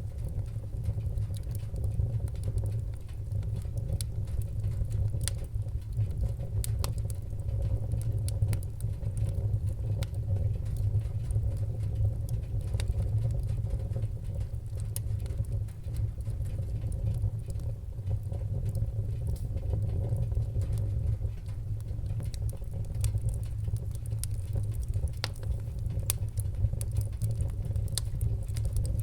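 Wood fire burning in a fireplace: a steady low rumble of the flames with scattered sharp crackles and pops of burning wood, irregularly spaced.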